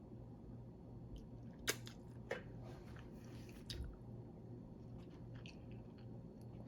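A person chewing food close to the microphone: soft, irregular mouth and chewing noises with two sharp clicks about two seconds in. A low steady hum runs underneath.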